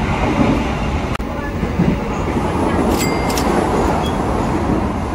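Passenger train running, heard from inside the carriage as a steady rumble of wheels and rails. Two or three short, sharp clinks come about three seconds in.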